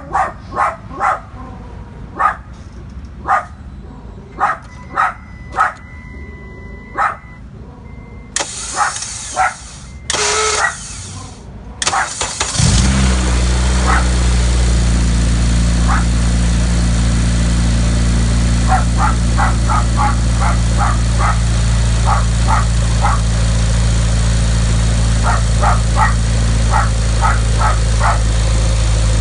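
A dog barks repeatedly. The bad starter motor of a 2007 Honda Civic Si makes its noise in two short spells, then the K20Z3 four-cylinder engine catches and runs at a steady idle while the dog keeps barking.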